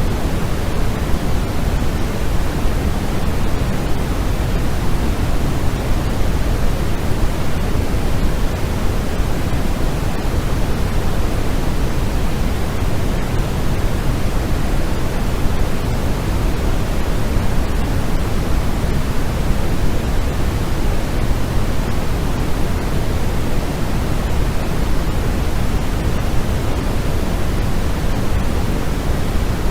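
Steady, unchanging white-noise hiss, fuller in the low end than the high.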